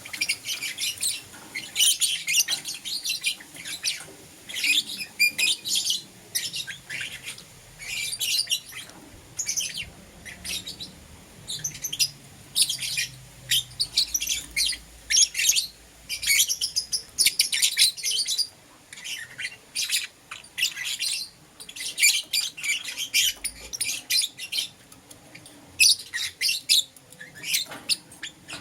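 Lovebirds chirping: quick runs of high, sharp chirps in clusters, with short pauses between.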